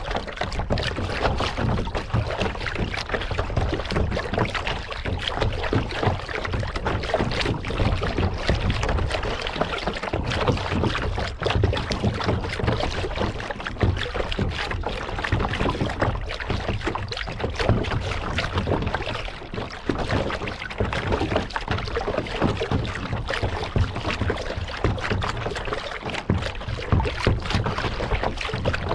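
Water splashing and lapping around a kayak as it is paddled, with a low wind rumble on the microphone.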